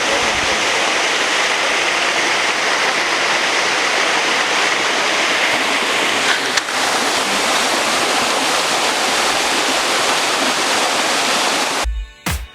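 Steady rush of flowing water. Near the end it cuts off abruptly and electronic music with a heavy bass beat comes in.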